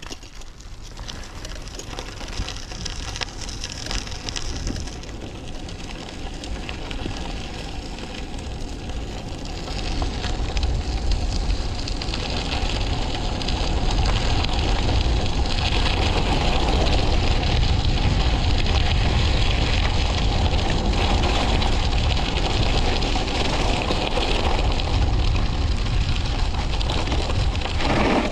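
Bike descending a mountain: wind rumbling on the microphone with the crackling hiss of tyres rolling over a rough surface. It grows louder as speed builds over the first half, then holds steady.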